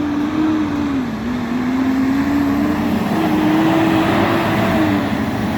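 A motor vehicle engine running, its steady tone drifting slowly lower and then higher, over a noisy rumble of road sound.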